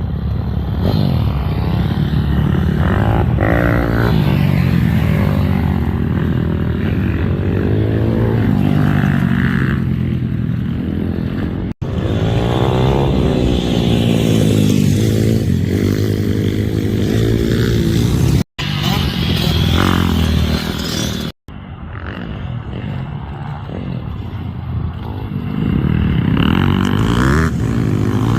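Pit bike engine revving hard up and down through the gears as it is ridden round a motocross track, the pitch repeatedly rising then falling back. Three very brief gaps break the sound.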